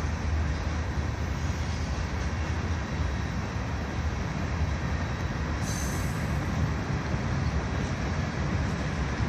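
Norfolk Southern freight train rolling past out of sight, a steady rumble of railcars on the track, with a brief high wheel squeal about six seconds in.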